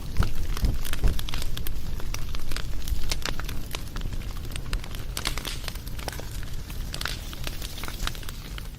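Bonfire crackling: irregular sharp pops and snaps over a low rumble of the flames, the whole gradually fading out.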